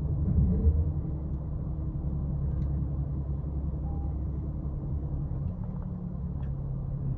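Steady low rumble of an automatic car wash running, muffled inside the car's cabin, with a few faint ticks.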